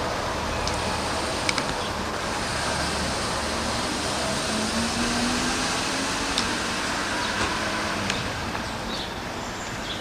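Vehicle engines running amid steady outdoor noise, with a faint rising engine note about halfway through and a few light clicks.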